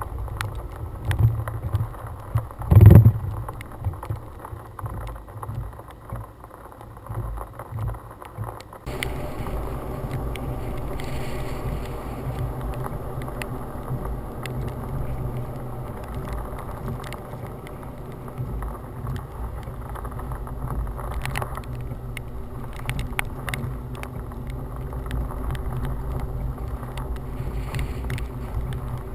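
Wind buffeting a GoPro microphone mounted on a truck hood, a gusty low rumble, with one loud thump about three seconds in. From about nine seconds the sound turns to a steadier, even low rumble.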